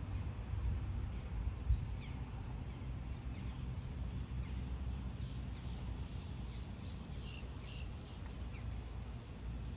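Small birds chirping faintly in short calls, scattered through and clustering near the end, over a steady low rumble.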